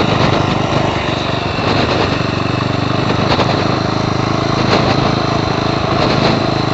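Custom chopper motorcycle's engine running steadily under way, a fast even buzz heard from the saddle.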